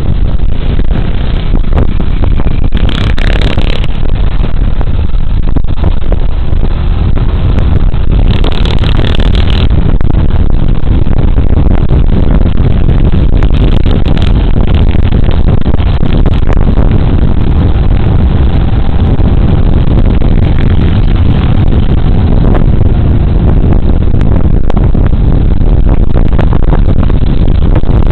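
Riding noise from a Suzuki Burgman Street 125 scooter, with heavy wind buffeting the body camera's microphone over the single-cylinder engine and road drone. Two brief bursts of hiss come about three seconds in and again around eight to nine seconds in.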